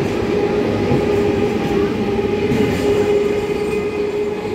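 Electric multiple unit (EMU) suburban train pulling out of the station, its coaches rolling past with a steady rumble and a constant whine.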